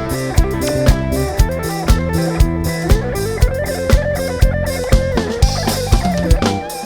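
Live band playing a song's instrumental intro: an electric guitar melody over a drum kit keeping a steady beat, about two kick-drum hits a second.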